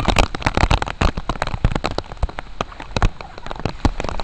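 Heavy rain pouring down, a steady hiss crowded with many sharp pops and clicks of drops striking close by.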